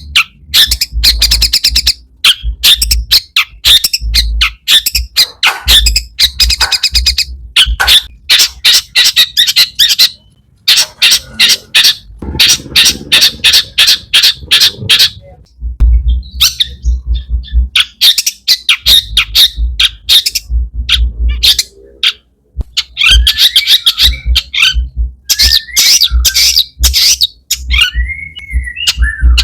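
Long-tailed shrike singing loudly: rapid runs of harsh, scratchy chattering notes broken by short pauses, with a few whistled slurred notes near the end, the varied song of a bird in full voice that shrikes use to mimic other birds.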